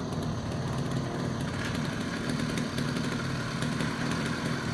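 Small motorbike engine running steadily.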